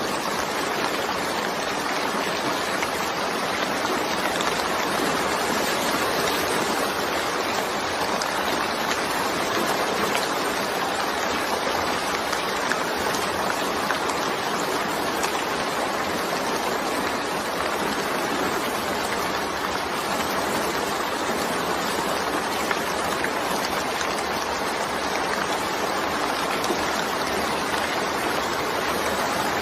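Steady rain falling, an even, unbroken rushing noise.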